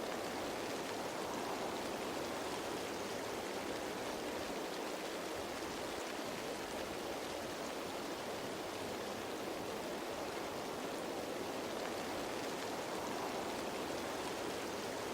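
Rain falling steadily on leaves, an even, unbroken wash of drops with no single event standing out.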